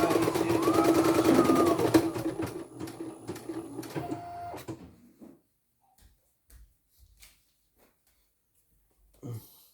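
Computerized embroidery machine stitching in a fast, even needle rhythm, with motor whine, then running down and stopping about halfway through. After that come a few faint clicks and a short knock near the end.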